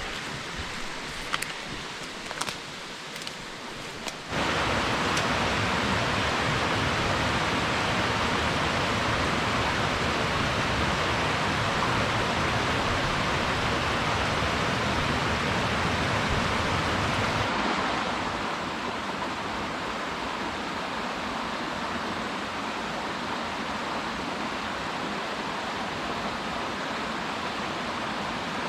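A few sharp snaps of brush, then the steady rush of a mountain stream cascading down a rocky drainage, which sets in suddenly about four seconds in and eases slightly about two-thirds of the way through.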